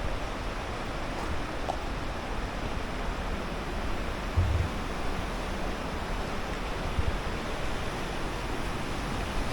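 Steady rush of fast-flowing river water, with a low thump about four and a half seconds in and a smaller one near seven seconds.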